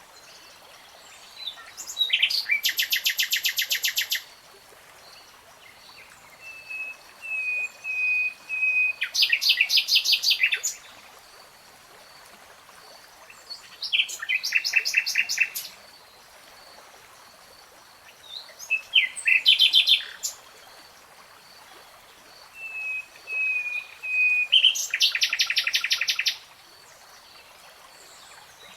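A nightingale singing in five separate phrases a few seconds apart, each a fast rapid-fire trill; two of the trills are led in by a run of slow, evenly repeated whistled notes.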